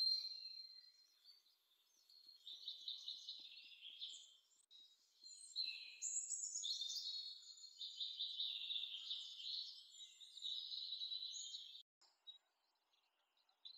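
Faint, high-pitched bird chirping and twittering in quick trills, cutting off suddenly about twelve seconds in.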